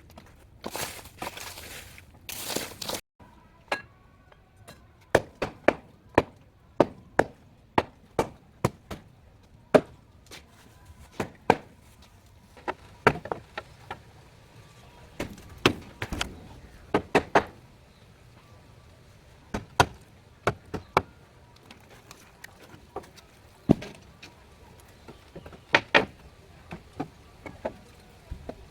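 Repeated sharp chopping strikes at an uneven pace, roughly one or two a second. They are preceded by a few seconds of scraping or rustling.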